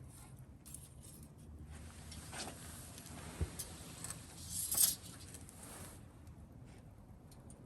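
Campfire crackling: scattered small pops and crackles, with a louder rush of hissing noise about four and a half seconds in.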